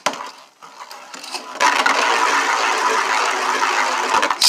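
Lord Spriggan and Prime Apocalypse Beyblades spinning against each other in a plastic stadium, a steady whirring scrape that sets in about a second and a half in. A sharp clack of a hit comes near the end.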